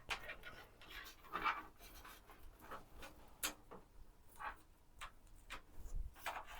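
Faint, irregular rustles, scrapes and light clicks of PC parts and cables being handled during assembly.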